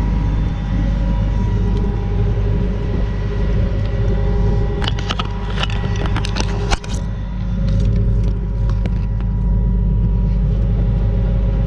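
Tractor engine idling steadily, with a short run of sharp metallic clicks and knocks about five to seven seconds in.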